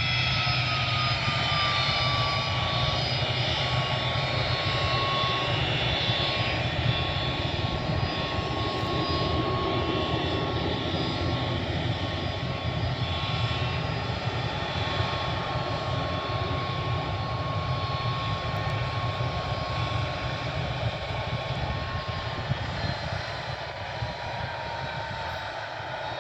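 Jet aircraft engines running, a steady loud rush with a high whine that sinks a little in pitch near the end.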